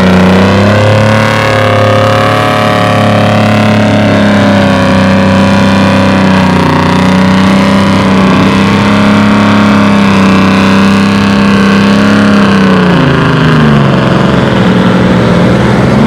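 A pulling vehicle's engine running hard under load down the pulling track. Its pitch holds fairly steady with small dips, then falls about thirteen seconds in as the engine slows. The pull comes up short, which the commentator puts down to too little RPM.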